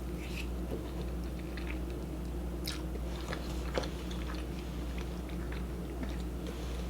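Close-miked chewing of ramen noodles: scattered soft, wet mouth clicks and smacks over a steady low hum.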